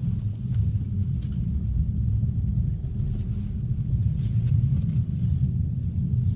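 Mazda3 Turbo running: a steady low rumble of engine and road noise heard inside the cabin.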